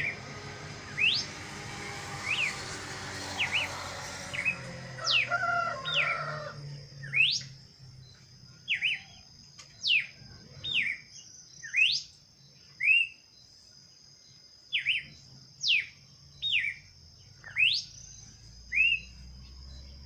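A bird calling over and over in short, sharp whistled notes that sweep steeply down or up in pitch, about one a second. A thin, steady high tone runs underneath, and a low background rumble fades out about six seconds in.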